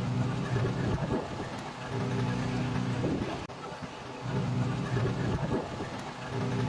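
Pressure washer spraying water onto a truck, its hissing spray over the steady hum of the washer's motor and pump, which shifts in pitch every second or two.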